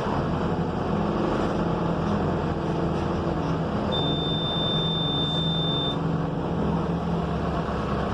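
Mercedes-Benz OF-1721 bus diesel engine running steadily under way, heard from inside the bus with road noise. About four seconds in, a high steady beep sounds for about two seconds.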